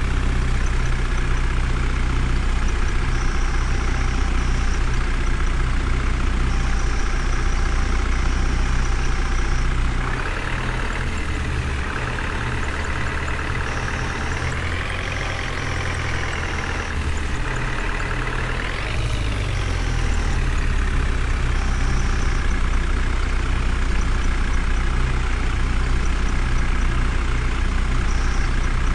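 Heavy engine running steadily, revving up and down for several seconds around the middle.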